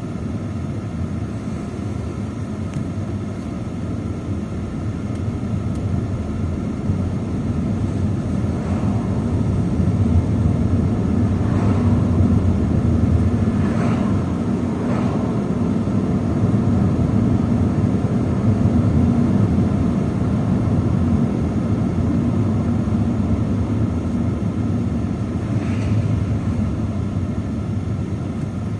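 A steady low rumble with a faint hum, swelling toward the middle and easing off again, with a few faint short higher sounds over it.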